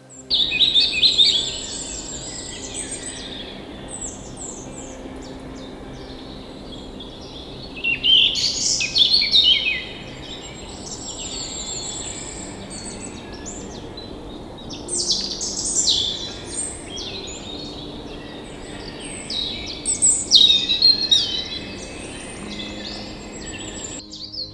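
Several birds chirping and trilling in quick, overlapping calls over a steady background hiss, with louder bursts of calling every few seconds.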